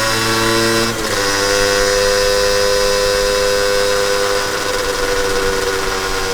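Honda NS-1's 50cc two-stroke single-cylinder engine running with a buzzy exhaust note. The pitch jumps about a second in, then holds steady.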